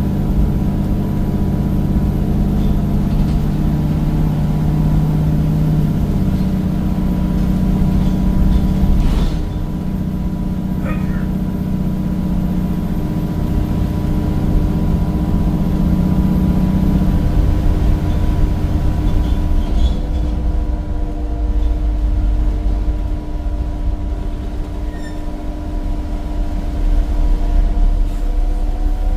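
Bus's replacement Cummins diesel engine with a ZF gearbox, heard from inside the bus, pulling with a steady drone that shifts in pitch about six seconds in, then drops away about seventeen seconds in, leaving a low road rumble. A single knock sounds near nine seconds.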